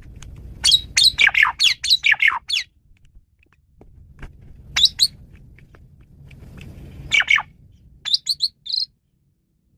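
Male Asian pied starling (jalak suren) singing a varied song in bursts of quick, sharp, sliding whistles and chatter: a fast run of about a dozen notes about half a second in, then short phrases around the middle and near the end. A low rumble sits under the pauses.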